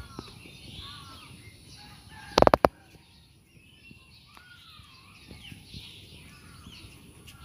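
Birds calling in scattered short chirps, with a brief cluster of loud knocks about two and a half seconds in.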